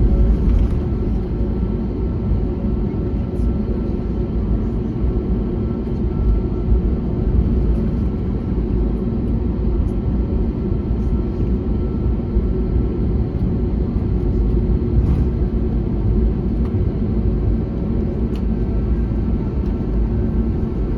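Steady rumble of an Airbus A321neo's Pratt & Whitney PW1100G geared turbofan engines and airflow, with a few faint steady tones above it.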